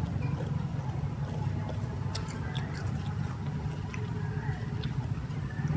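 Chewing crunchy fresh fruit in rojak sauce, with a few crisp clicks about two to three seconds in, over a steady low background hum.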